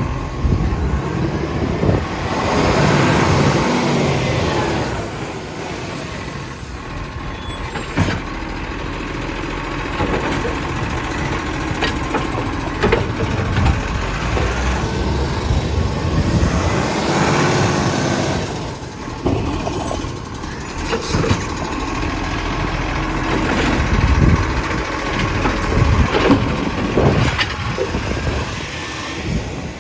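Garbage truck running, swelling louder twice, with scattered clunks and knocks.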